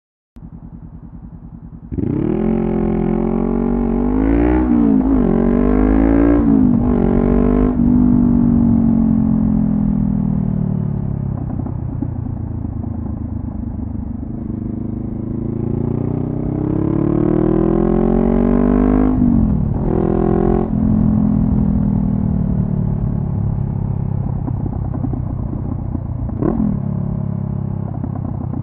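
Honda CB500F parallel-twin engine through a Delkevic carbon slip-on exhaust, running quietly for a moment and then pulling away hard about two seconds in. It revs up through three quick upshifts, cruises and eases off, then accelerates again with two more shifts before settling back to a steady cruise.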